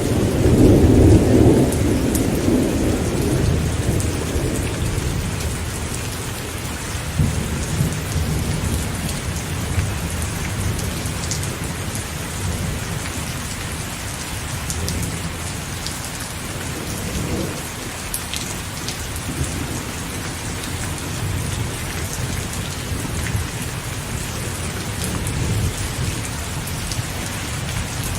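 Steady rain with scattered drops striking close by, over rolling thunder. The thunder is loudest in the first few seconds, then eases to a low, continuing rumble.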